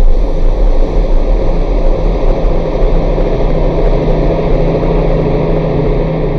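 Dense, noisy electronic drone from a Forge TME VHIKK X Eurorack module, with steady low tones under a wash of noise. Near the end it eases slightly and loses its highest part.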